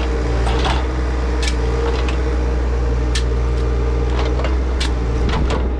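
Diesel engine of a compact earthmoving machine running steadily, with a scatter of sharp knocks and clanks from the machine at work.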